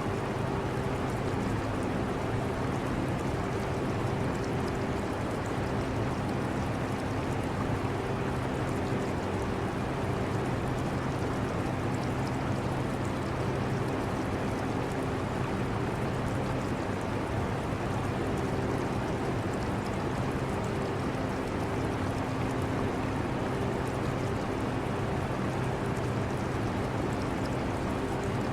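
Steady whooshing of a portable air conditioner's fan with a low hum that fades in and out, mixed with the trickle and gurgle of aquarium water.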